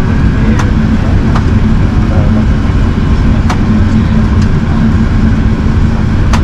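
Airbus A380 cabin noise in flight: a loud, steady low roar of engines and airflow with a droning hum underneath. A few sharp ticks are scattered through it.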